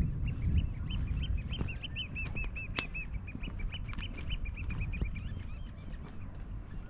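A flock of birds calling in a rapid run of short, arched piping notes, several a second, that thins out after about four seconds, over a low outdoor rumble.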